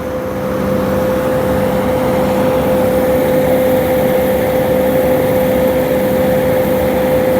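An engine running steadily at a constant speed, with a steady hum over the noise. It grows slightly louder about a second in.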